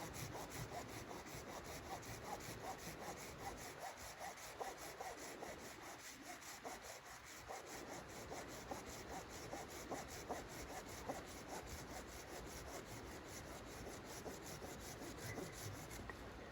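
Hand saw cutting wood in quick, even back-and-forth strokes, about four a second.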